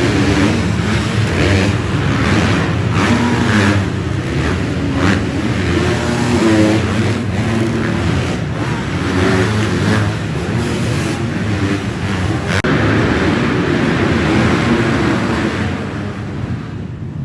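Motocross bike engines revving, the pitch rising and falling as the throttle is opened and closed, a little quieter near the end.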